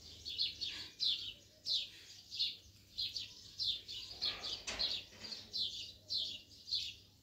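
A small bird chirping over and over: short, high, falling chirps, about two or three a second.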